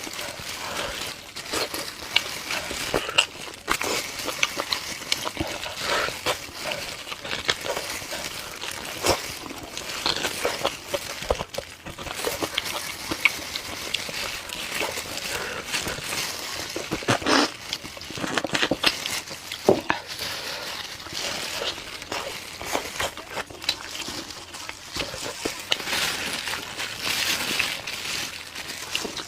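A person eating: chewing and wet, smacking mouth sounds, with a dense run of small irregular clicks and crackles.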